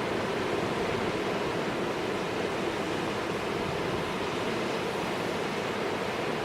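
Steady rushing of storm surf against a rock jetty, with no single wave crash standing out.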